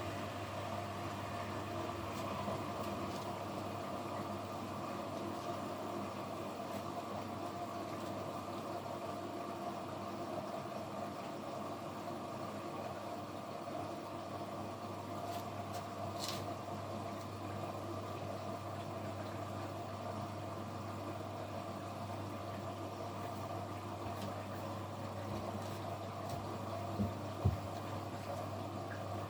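Kunft washing machine running on its quick 15-minute 40 °C programme: a steady mechanical hum, with two short knocks near the end.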